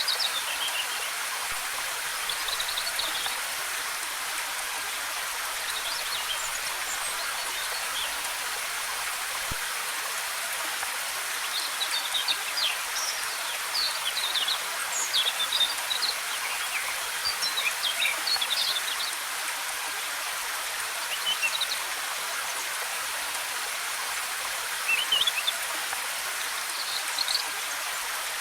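Waterfall rushing with a steady hiss, with forest birds chirping and twittering over it in scattered short phrases, busiest in the middle.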